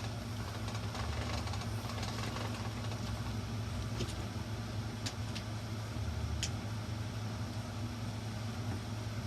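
Steady low mechanical hum, with a few faint clicks about four, five and six and a half seconds in.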